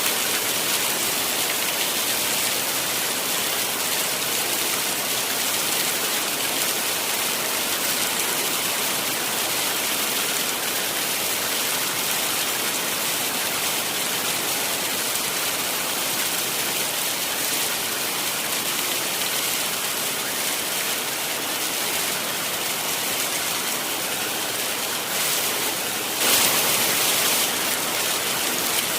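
Heavy rain falling steadily as an even hiss, with a short louder surge near the end.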